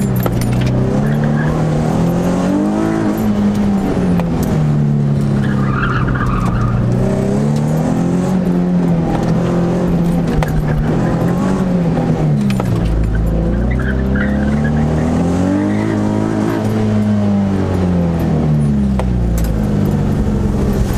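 Nissan 350Z's 3.5-litre V6, heard from inside the cabin, revving up and falling back again and again as the car accelerates and brakes through tight turns in a low gear. Brief tyre squeal comes in a couple of times.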